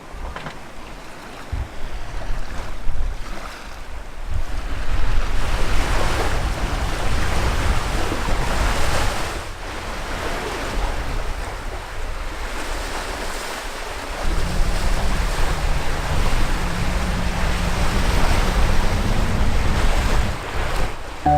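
Wind buffeting the microphone over the rush of sea water along a sailing catamaran's hulls, rising and falling in surges. About two-thirds of the way through, a low steady hum joins in.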